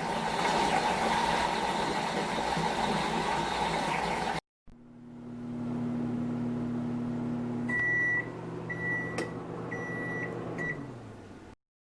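A small household appliance humming steadily, then sounding four short electronic beeps, its hum winding down and stopping soon after, like a microwave oven finishing its cycle. It is preceded by a few seconds of loud, steady noise.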